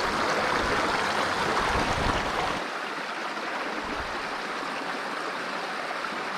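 Small trout stream flowing: a steady rush of running water, with a low rumble underneath that stops about two and a half seconds in.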